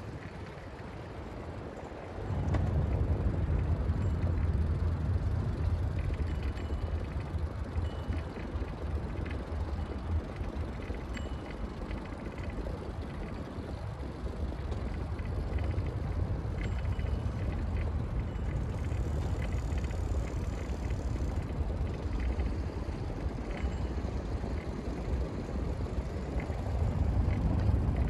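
Steady low rumble of wind and traffic noise picked up on the move, jumping sharply louder about two seconds in.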